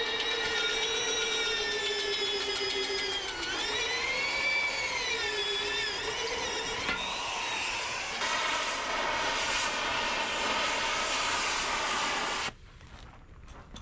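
A power tool's motor whining at a high, steady pitch. The pitch sags and swings back up for a few seconds in the middle, then the whine stops abruptly near the end.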